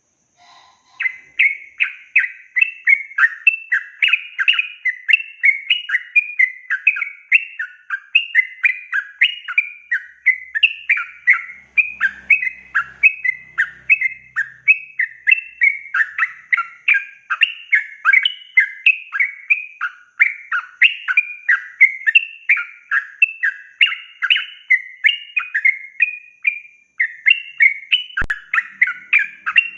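Sooty-headed bulbul (trucukan) singing a long unbroken run of quick warbling phrases, about three notes a second, beginning about a second in.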